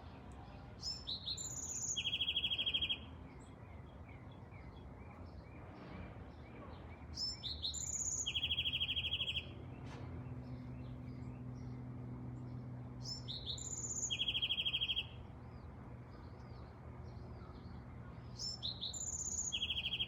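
A songbird repeating the same short song phrase four times, about every six seconds: a few quick high notes, then a fast, even trill lasting about a second. Faint chirps from other birds come in between the phrases.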